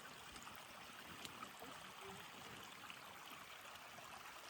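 Faint, steady rush of a flowing stream.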